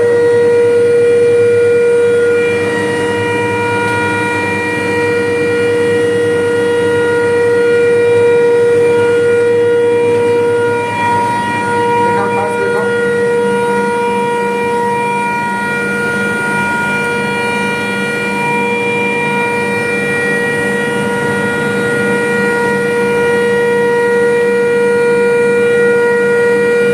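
Steady high-pitched electrical whine of a running induction furnace power panel: one strong held tone with evenly spaced overtones above it. A lower hum joins about halfway through.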